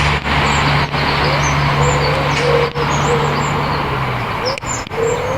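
Birds calling in the open, with repeated low coos and scattered high chirps, over a steady noisy background. A low steady hum underneath stops about four seconds in.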